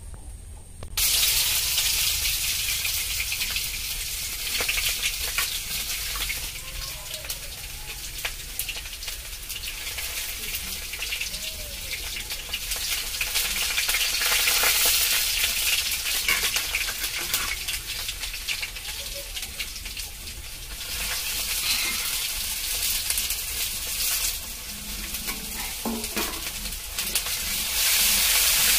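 Food frying in hot oil in an aluminium kadai over a wood fire, sizzling loudly while it is stirred. The sizzle starts suddenly about a second in and then swells and eases.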